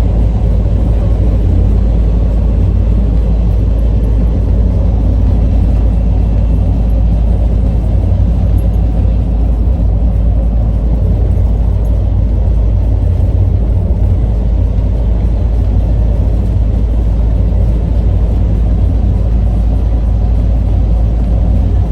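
Steady engine and road rumble inside a moving U-Haul moving truck on the highway, heaviest in the low end and unbroken throughout.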